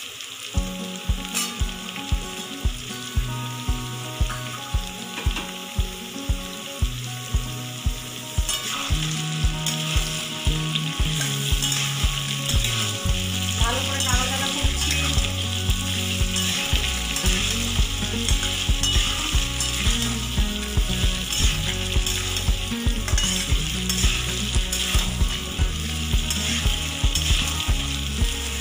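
Chopped vegetables sizzling in hot oil and butter in a metal kadai, stirred and turned with a metal spatula.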